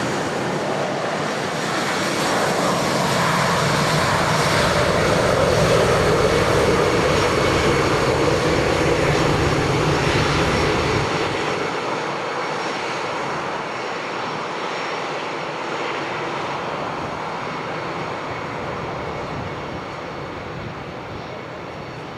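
Jet airliner taking off, its engines a steady rush that grows to its loudest about six seconds in, then slowly fades as the aircraft climbs away.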